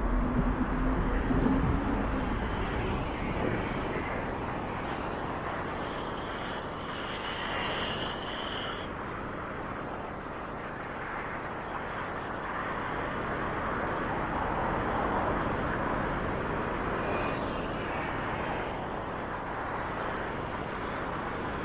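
Steady city road traffic, a wash of passing cars and buses. A heavy vehicle rumbles past at the start, and a high steady squeal lasts a few seconds from about six seconds in.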